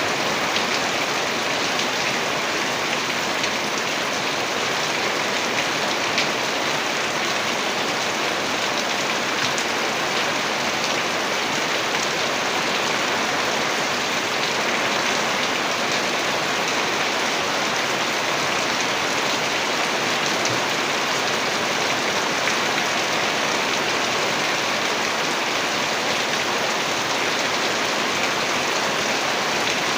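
Heavy rain falling steadily, a constant hiss with many small drops pattering on surfaces.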